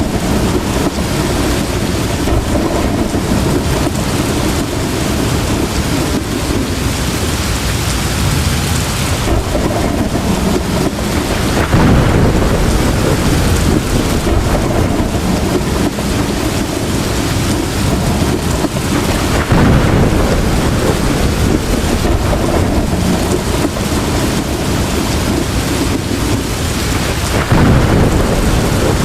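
Heavy rain pouring steadily, with low rumbles of thunder swelling up about twelve, twenty and twenty-eight seconds in.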